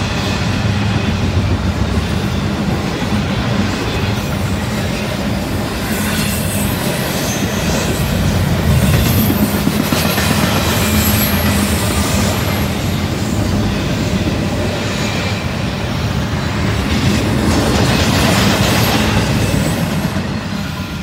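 CSX double-stack intermodal train's container well cars rolling past, a loud steady rumble of steel wheels on rail with a thin high squeal at times. The noise starts to fade near the end as the last car goes by.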